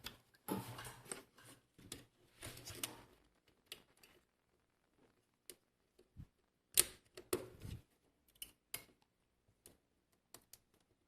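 Scattered light clicks and short rustles of a computer motherboard being handled, a few of them sharper.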